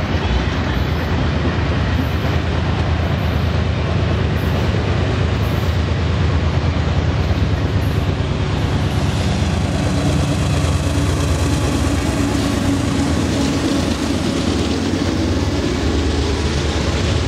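Canadian Pacific Holiday Train passenger cars rolling steadily past, a continuous rumble of steel wheels on rail with rapid wheel clatter. A faint steady drone joins in about ten seconds in.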